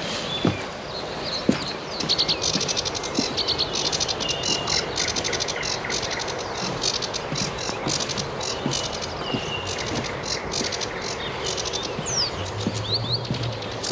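Several songbirds singing at once in a morning chorus: rapid high trills and repeated chattering notes, with short clear whistles in between, starting about two seconds in.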